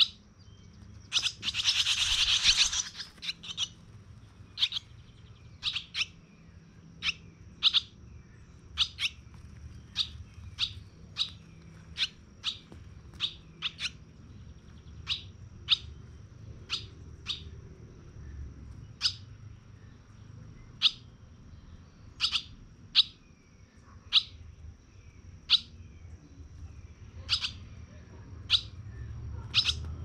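Baby birds chirping: short, sharp chirps repeated about once a second, with a louder, harsher burst of calling about a second and a half long a little over a second in.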